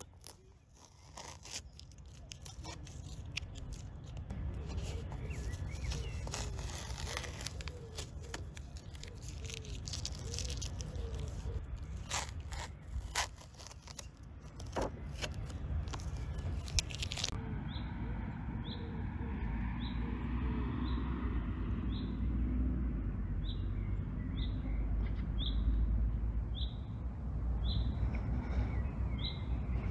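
Rustling and scattered clicks of handling. Then, after a sudden cut just past halfway, a bird repeats a short, high, rising chirp about once a second over a low rumble.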